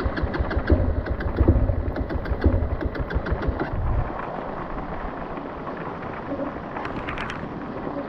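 Motorcycle on the move, its engine under a steady rush of wind noise, with a run of knocks and rattles in the first four seconds and another short clatter about seven seconds in.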